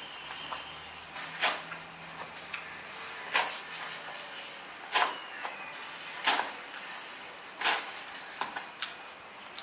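A series of sharp knocks and clacks, about one every second and a half, over a low steady background.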